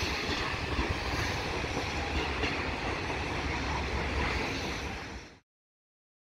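Freight train of open wagons rolling away along the track, a steady rumble and clatter of wheels on rails. It fades and cuts off to silence a little after five seconds in.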